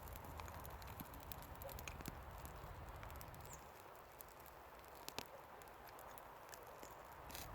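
Faint scattered light ticks and rustles, with a couple of sharper clicks about five seconds in.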